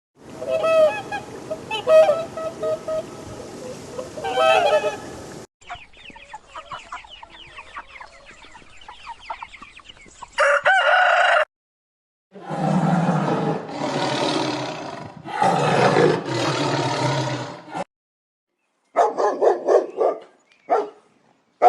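Chickens: hens clucking and a rooster crowing, heard in several short clips that start and stop abruptly, with brief silent gaps between them.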